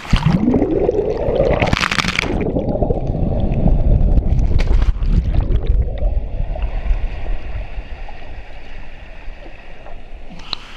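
Rushing, splashing water at a waterfall, a dense noise with a heavy low rumble, louder through the middle and easing off toward the end.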